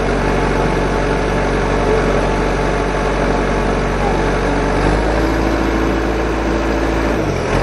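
Homemade mini tractor's small engine running steadily. Its note changes slightly about five seconds in, and it cuts off abruptly at the end.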